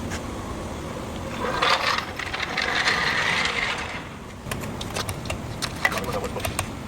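Mechanical tool noise in a tire shop: a rattling, hissy stretch lasting about two and a half seconds, followed by a run of scattered sharp clicks.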